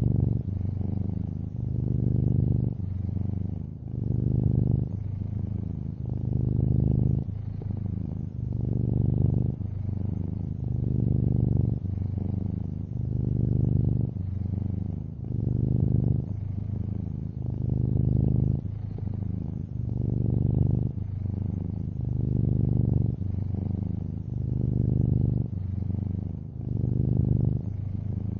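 Long-haired orange tabby cat purring in a low rumble, swelling and easing in a regular rhythm about once a second.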